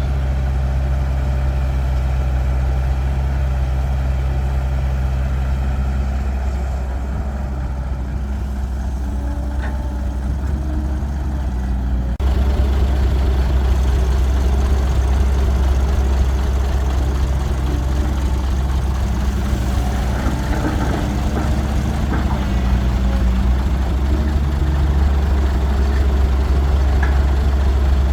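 Caterpillar 312 excavator's diesel engine running steadily as it works, with a few faint knocks. About twelve seconds in the sound steps up abruptly and stays a little louder.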